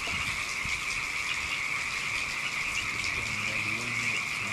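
A steady chorus of frogs calling, with a faint low hum coming in about three seconds in.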